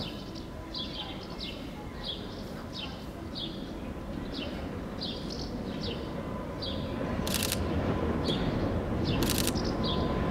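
A small bird calling with short, falling chirps about twice a second over a low street rumble that slowly grows as a Tatra tram approaches. A few short hissy bursts come in the second half.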